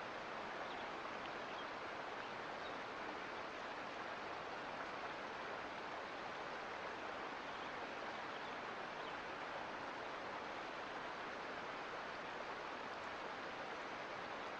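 Mountain creek flowing over rocks: a steady, even rush of water.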